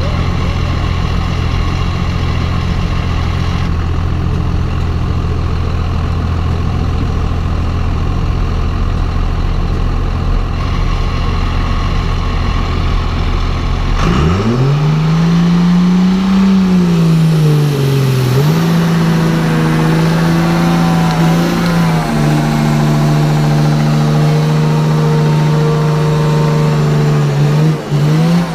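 Diesel pickup truck engine idling, then revving up sharply about halfway through and held at high revs with a few brief dips, as in a burnout.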